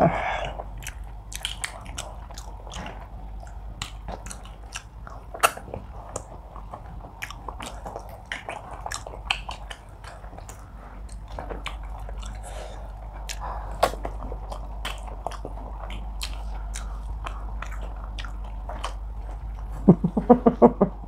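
Close-up mouth sounds of people eating soft, wet food by hand (pounded yam with okro soup and tilapia): chewing with frequent sharp lip smacks and clicks. A brief pulsing voiced sound comes near the end.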